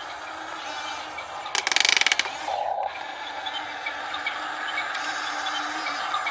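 Small electric motors and plastic gearing of a Huina 1/14-scale RC excavator whirring. About one and a half seconds in comes a rapid ratcheting rattle lasting under a second, typical of the model's slip clutch slipping under load.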